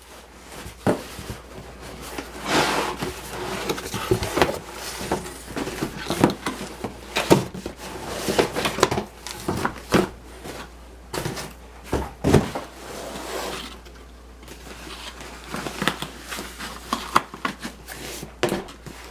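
Styrofoam packing and boxes being handled during unpacking: irregular rubbing and scraping, broken by a dozen or so sharp knocks of varying loudness.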